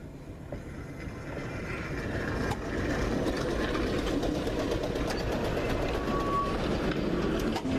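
Museum streetcar pulling away on rails: a rumble of wheels and running gear that builds over the first three seconds and then runs steadily, with one brief high tone about six seconds in.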